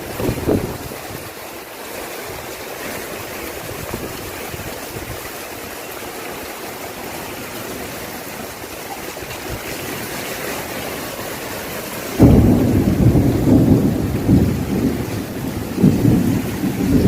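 Steady rain hiss. About twelve seconds in, a much louder, uneven low rumbling starts suddenly and carries on to the end.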